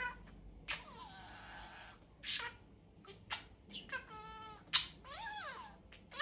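Pet budgerigar chattering: short chirps that rise and fall, sharp clicks, a scratchy rasp about a second in, and a buzzy warbling note about four seconds in.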